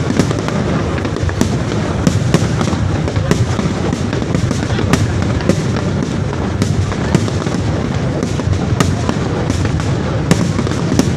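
Fireworks going off: a rapid, irregular string of sharp bangs and cracks over a continuous low rumble from many bursts at once.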